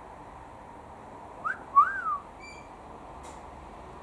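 A short whistled phrase about halfway through: a rising note and then a longer rising-and-falling one, followed by a brief faint chirp.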